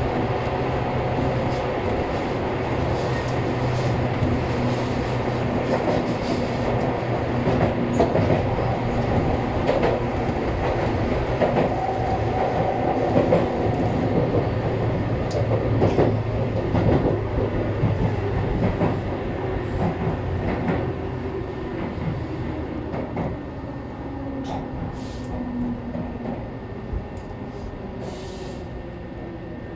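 Tobu 800 series electric train running, heard from inside its front car: wheels on rail with a steady motor hum and some clickety-clack. The sound grows quieter over the last third as the train slows into the station.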